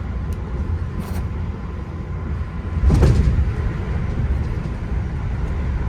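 Steady low rumble of a JR Special Rapid train running, heard from inside the carriage, with a brief louder rush about three seconds in.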